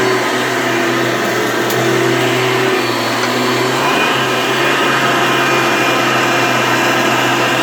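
Hoover Elite vacuum cleaner running steadily: a loud, constant motor drone with a low hum and a steady whine above it.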